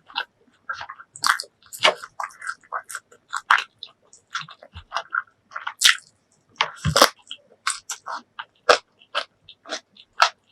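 Close-miked eating: a person chewing and biting food, a quick irregular run of crunchy, wet mouth sounds.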